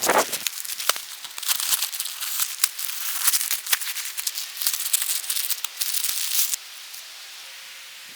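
Rain falling, a dense irregular run of sharp drop hits over a hiss that drops to a softer, steady hiss about six and a half seconds in.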